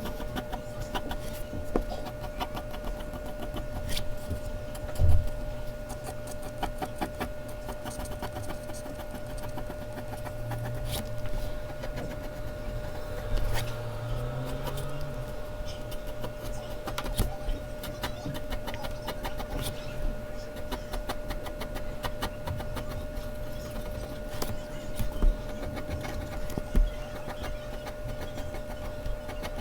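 Mechanical pencil scratching in quick repeated strokes on Bristol paper, with small ticks and an occasional louder knock, over a faint steady hum.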